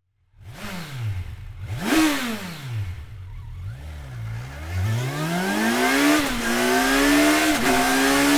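Kawasaki Versys 1000's inline-four engine through a GRmoto X Series aftermarket exhaust: several sharp throttle blips, then a steady pull with rising revs and brief dips in pitch at two gear changes.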